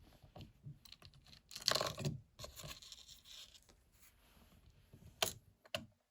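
Plastic Lego pieces being handled and dragged: irregular rustling, scraping and small clicks, with the loudest cluster about two seconds in and a sharp click near the end.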